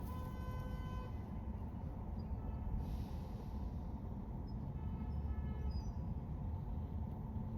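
Steady low road and engine rumble of a car driving in city traffic. A short car horn toot sounds in the first second, and a fainter horn about five seconds in.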